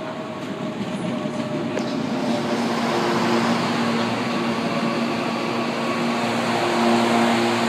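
CPTM series 8500 electric multiple-unit train running past at close range, its wheels rumbling with a steady electrical hum over the top. The sound grows louder as the cars go by.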